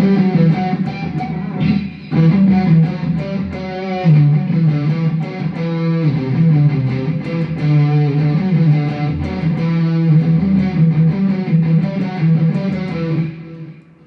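Electric guitar played through a Mooer GE100Pro multi-effects unit preset: a phrase of picked and strummed notes that starts abruptly and rings off near the end.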